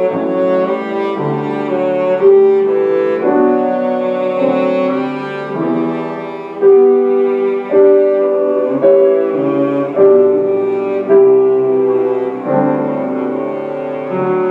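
Cello playing a slow melody of long held notes with piano accompaniment, live classical chamber music. In the second half, strongly accented notes come about once a second.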